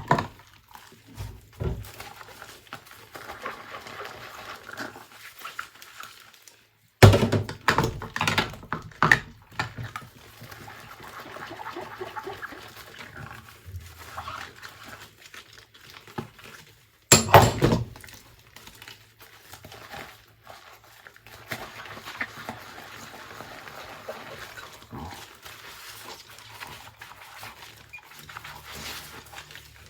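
Dishes being washed by hand: loud bursts of clattering crockery and utensils about a quarter of the way in and again just past halfway, with softer scrubbing and washing sounds in between.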